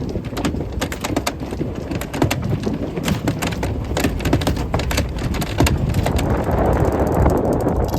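Sailboat underway in strong wind: wind rumbling on the microphone over a rapid, irregular patter of water splashing. The patter thins out after about six seconds as the wind noise builds.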